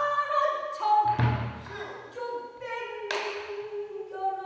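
Pansori singing: a voice holding long, wavering notes, accompanied by strokes of the buk barrel drum, a low thump about a second in and a sharp knock about three seconds in.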